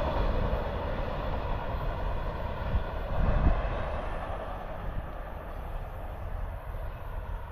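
Amtrak passenger train rolling past at about 60 mph, a steady rush of wheels on rail over a low rumble that slowly fades as it moves away.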